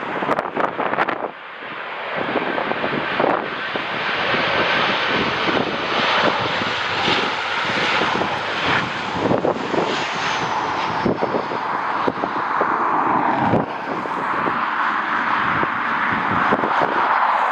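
Airliner engines running loud and steady as a landing plane passes close, with wind gusts buffeting the microphone.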